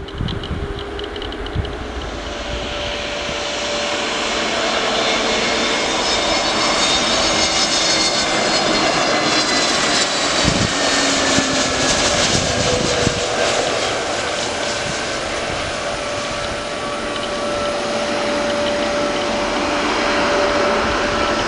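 Jet airliner's engines passing close, a roar that builds over the first few seconds with high whining tones sliding gently down in pitch as it goes by, then a steady rumble.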